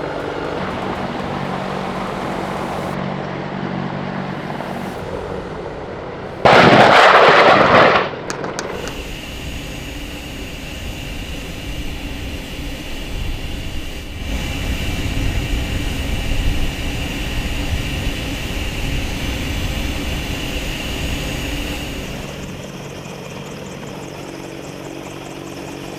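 Aircraft engine noise, with a loud rushing blast about six and a half seconds in that lasts about a second and a half. After it comes a low rumble with a steady high whine that fades near the end.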